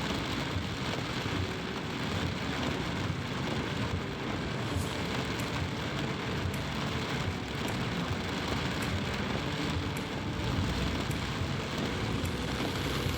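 Heavy monsoon rain pouring steadily, mixed with the sound of road traffic.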